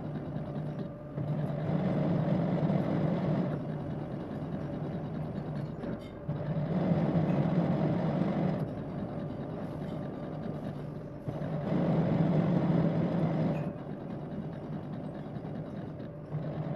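Lathe running while cutting a thread on a pin. The sound grows louder for about two seconds three times, at even spacing, between quieter stretches of steady running.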